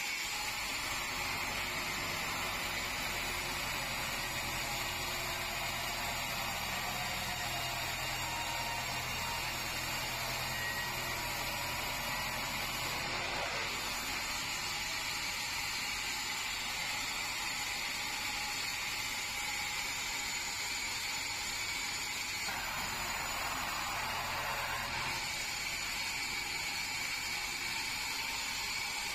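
Band sawmill running steadily as it saws red meranti timber, with a constant hum under a hissing whine. The hum changes about halfway through, and a brief extra rush of sound comes in about three-quarters of the way through.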